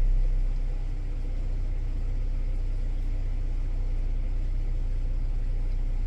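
Old Ford tractor engine running. It eases down about a second in, then runs on as a steady low rumble.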